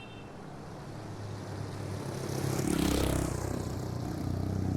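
Domestic cat purring: a low, steady, rumbling purr that grows steadily louder.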